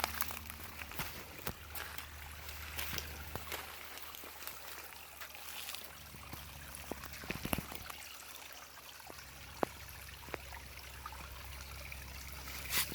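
A small creek trickling over stone, a steady wash of running water with scattered faint clicks and taps.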